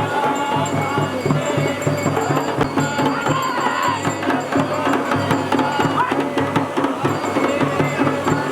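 Traditional folk music with steady, rhythmic drumming.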